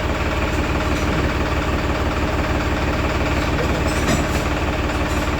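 Powertrac Euro 50 tractor's diesel engine idling steadily.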